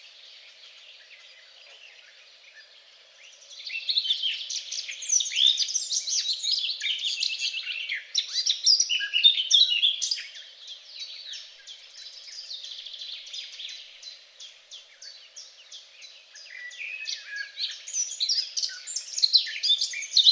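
Several songbirds singing at once, a dense chorus of quick chirps and trills. It swells about four seconds in, eases off around ten seconds, and picks up again near the end.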